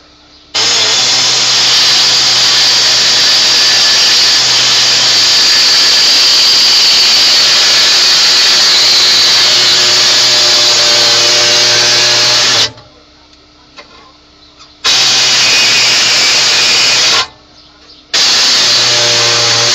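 Pneumatic cutter running and cutting through dash plastic: one long run of about twelve seconds, then two short bursts of about two seconds each, with a hiss of air throughout each run.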